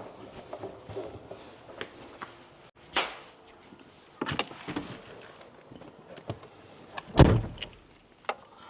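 Scattered clicks and knocks, then a car door shutting with one heavy thump about seven seconds in.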